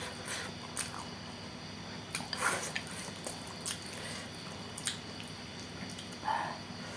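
Close-miked wet chewing and mouth smacking while eating saucy instant noodles with bean sprouts: irregular moist clicks and squishes, a few each second.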